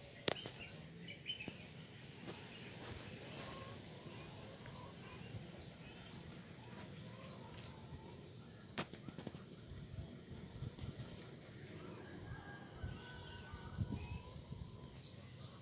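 Quiet outdoor ambience: a bird repeats a short, high, dipping chirp about every one and a half seconds from about six seconds in, with fainter bird calls behind it. There are two sharp clicks, one just after the start and one about nine seconds in.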